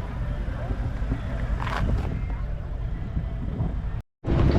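Steady low rumble of car engines running, with faint voices in the background; the sound cuts out abruptly for a moment about four seconds in.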